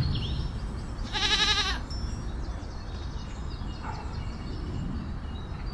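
Goat bleating: the tail of one wavering bleat at the start, then a second bleat about a second in.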